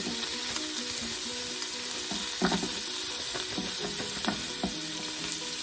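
Baby carrots sizzling in hot avocado oil in an Instant Pot, with a few clunks as they are tipped in and moved about. The carrots are being lightly browned in the browned-beef drippings.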